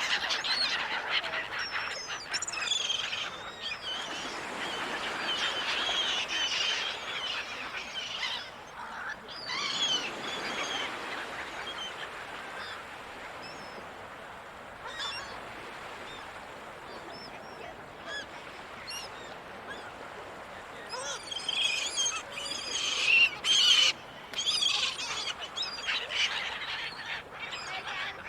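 A flock of gulls calling over one another: many short cries rising and falling in pitch, bunched at the start, about a third of the way in, and loudest near the end. A steady rushing noise runs underneath.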